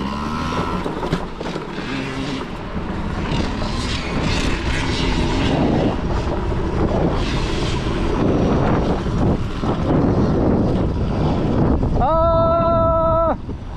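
Youth dirt bike engines buzzing and revving on the track, their pitch rising and falling as the bikes pass, mixed with rough wind-like noise. Near the end a long held shout cuts in over them.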